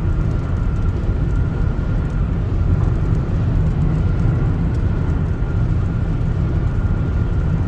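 Steady rumble of a car being driven, heard from inside the cabin: engine, tyre and wind noise with a faint steady high whine above it.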